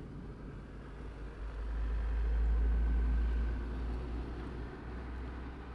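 Low traffic rumble heard from inside a standing car, swelling about two seconds in as a heavy vehicle passes close by, then fading.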